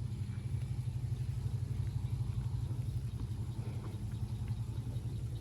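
A vehicle engine running steadily with a low, rapidly pulsing hum.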